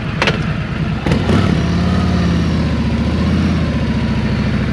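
Harley-Davidson Electra Glide Revival's V-twin engine running with an uneven, loping idle. There is a sharp click about a quarter second in and another about a second in, after which the engine note holds steadier and slightly fuller as the bike is ridden off.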